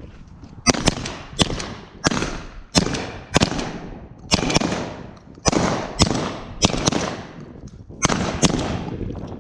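Shotguns fired in a rapid, irregular string of about a dozen shots, each followed by an echoing tail.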